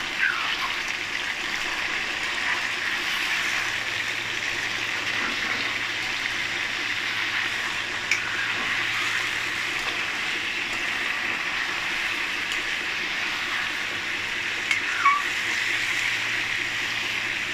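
Raw chicken pieces sizzling steadily in hot oil in a steel karahi, with a few knocks of a metal ladle as they are turned, the clearest near the middle and about two seconds before the end.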